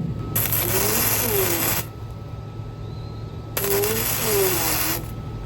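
Honda XL250S single-cylinder motorcycle engine idling, revved up and back down twice, about half a second in and again at about three and a half seconds.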